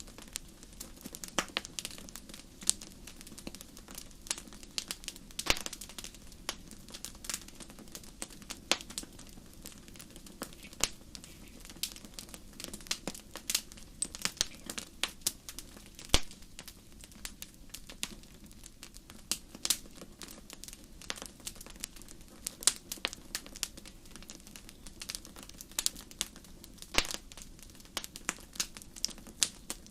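Wood fire crackling in a fireplace: frequent irregular sharp pops and snaps over a low steady hiss of burning.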